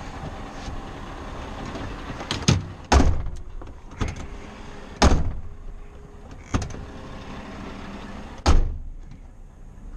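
A series of sharp bangs and clunks, about seven over several seconds, over a steady low engine hum from a stationary or slow-moving truck.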